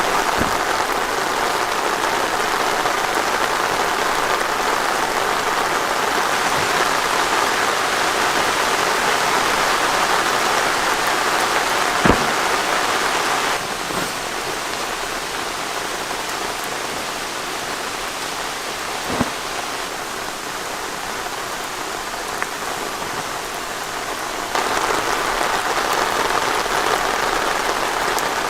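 Steady rain falling, with a couple of sharp single drips or taps standing out. The rain gets a little quieter about halfway through and picks back up near the end.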